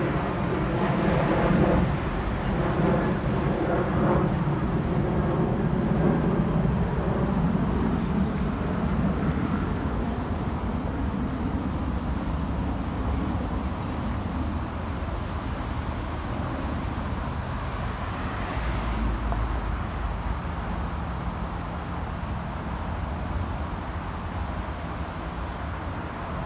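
Steady engine drone with a held pitch, loudest in the first several seconds and then slowly fading into a low rumble.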